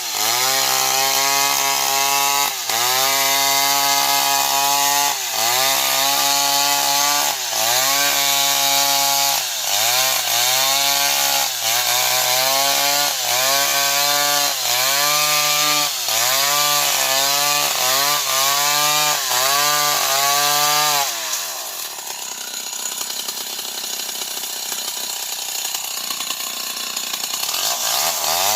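Old Stihl 070 two-stroke chainsaw running at high revs in a cut, its engine note dipping and recovering every second or two as the chain loads up. About three quarters of the way through the revs fall away sharply to a quieter, rougher sound for several seconds, then climb back up near the end.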